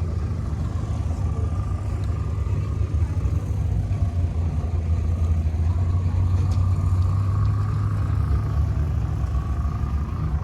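A car engine running with a deep, steady low rumble that grows a little louder through the middle.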